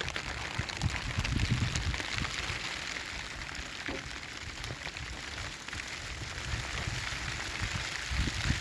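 Heavy rain falling: a steady, dense patter of many drops, with low rumbles coming and going underneath.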